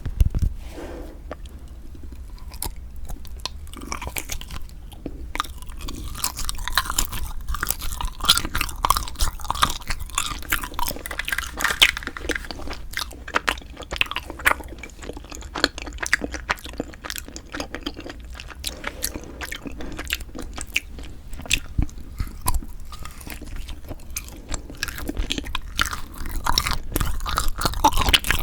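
Close-miked chewing and biting of cream cheese and frozen rice cake. It is a continuous stream of wet, sticky clicks and small crunches, with no talking.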